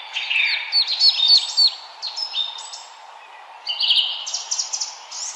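Forest birds singing and chirping: quick runs of short, falling whistled notes, one run about a second in and another starting near the end, over a steady background hiss.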